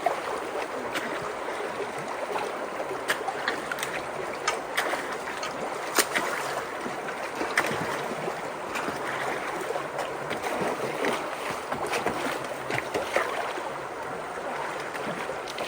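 Creek water rushing steadily at a debris-clogged culvert, with irregular sharp knocks and splashes every second or two as sticks and debris are moved in the flow.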